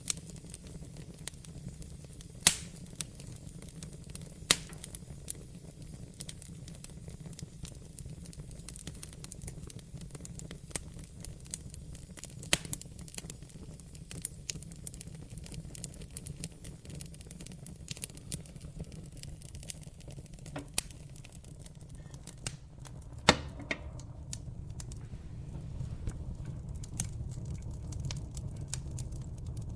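Wood fire burning in a fireplace with a steady low rumble, popping and crackling at irregular moments. The sharpest pops come about two and a half seconds in, around four and a half seconds, and near the twenty-third second.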